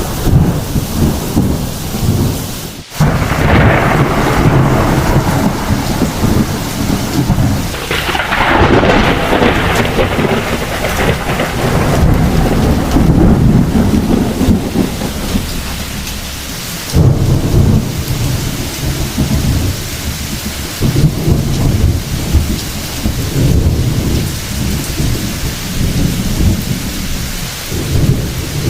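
Thunderstorm: heavy rain falling with rolling thunder rumbling throughout. Louder cracks of thunder break in about 3 seconds and 8 seconds in, and another comes suddenly around 17 seconds.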